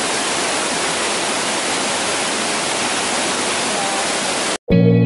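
Waterfall's steady, even roar of falling water. It cuts off abruptly near the end, and guitar music starts at once.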